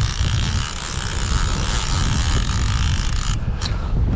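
Wind buffeting the microphone in a steady low rumble, with an even hiss over it that stops about three seconds in.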